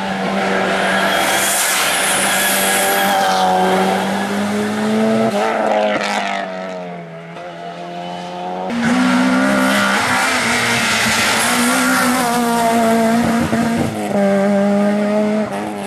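Race car engine at high revs. Its pitch falls as the driver lifts off about six seconds in, then it accelerates hard again about three seconds later.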